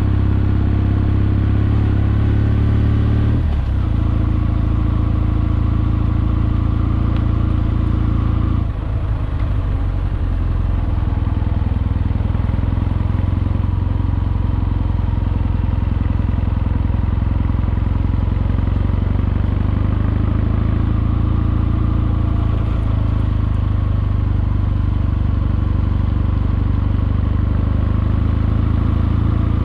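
Kawasaki W650's air-cooled parallel-twin engine running while the bike is ridden. The note shifts about three and a half seconds in, then again near nine seconds after a brief dip in level, and runs steady after that.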